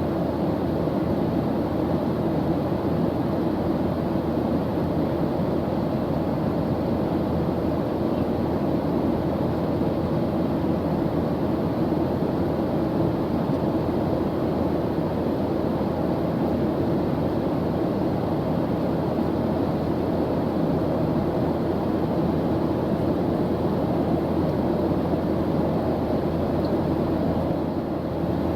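Airplane engine noise in flight: a steady, unchanging rumbling hiss, heaviest in the low range.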